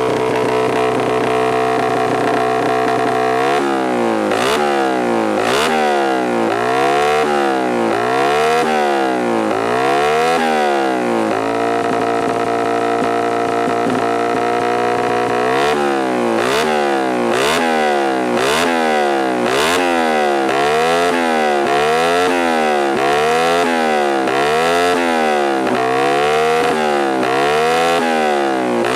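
Suzuki Satria FU's fuel-injected single-cylinder four-stroke engine revving through a Tetenk Pro-MP racing exhaust. It is held at steady high revs, then blipped up and down about once a second, held steady again for a few seconds, then blipped a little faster.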